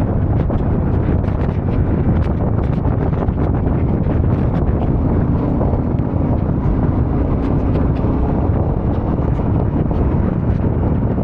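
Wind rushing over the microphone on a moving Yamaha Ténéré 700, with its parallel-twin engine running steadily underneath and frequent small ticks throughout.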